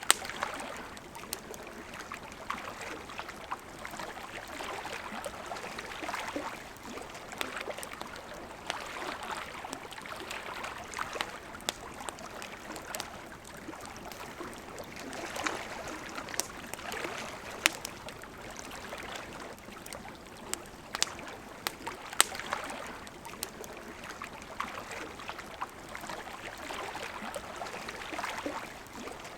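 River water flowing steadily, with a gently swelling rush, while a wood campfire crackles with scattered sharp pops, a few of them louder than the rest.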